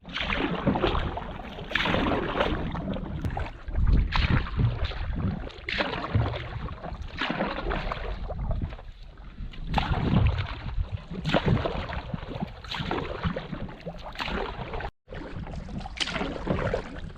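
Canoe paddle strokes in moving river water, a swish and splash coming about every one and a half to two seconds, over steady wind noise. The sound cuts out briefly near the end.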